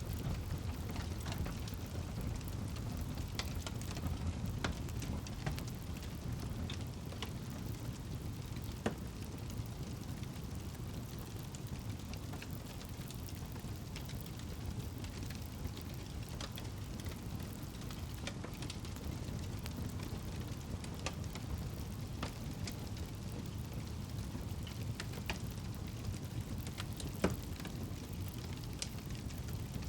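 Campfire burning: a steady low rumble of flames with scattered crackles from the wood and two louder pops, about nine seconds in and near the end.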